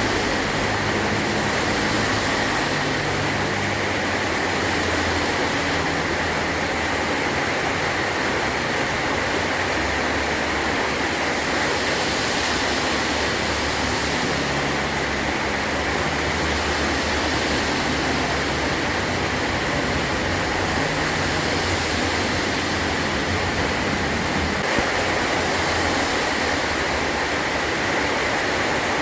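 Heavy rain drumming steadily on a metal roof, a dense, even hiss with no let-up.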